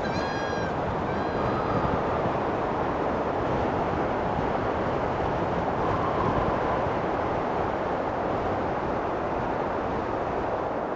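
Steady rushing noise of strong wind and a moving car, holding level throughout with slight swells.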